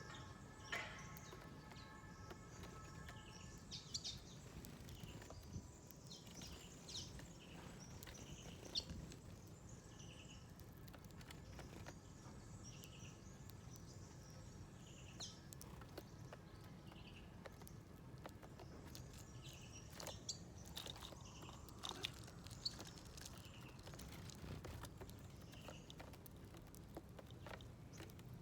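Small wild birds giving faint, scattered short chirps and calls over a steady low background rumble, with a few sharp clicks.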